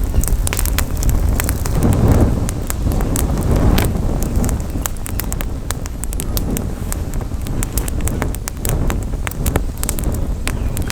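Wood campfire crackling, with many sharp irregular pops and snaps. A low rumble of wind buffets the microphone throughout, swelling about two seconds in and again near four seconds.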